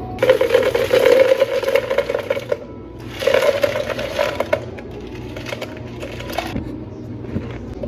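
Cafe blender motor running in two short bursts, the first about two seconds long and the second about a second and a half, followed by light clicks and knocks of cafe utensils.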